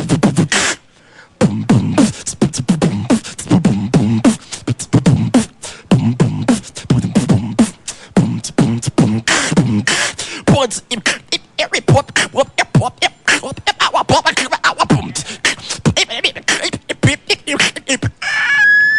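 Human beatboxing: one man making fast vocal kick, snare and hi-hat sounds in a tight rhythm, with a short break about a second in and a held high tone near the end.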